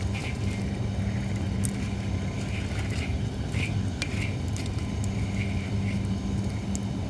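Holly firewood burning in a campfire, crackling with scattered sharp pops and clicks, over a steady low hum.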